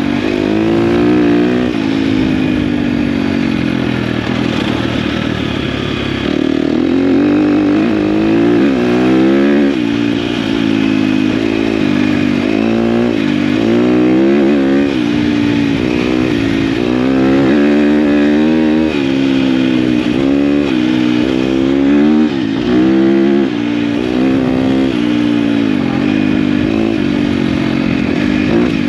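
KTM dirt bike engine being ridden off-road, its revs rising and falling over and over as the throttle is opened and closed every second or two.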